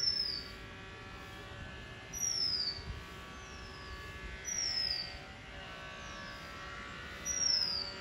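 Oriental magpie-robin giving a short, high descending whistle, repeated four times about every two and a half seconds. The calls sit over a faint steady drone of several held tones.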